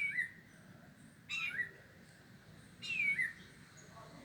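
Rufous-bellied thrush calling: three short down-slurred calls, each dropping then lifting slightly at the end, spaced about a second and a half apart.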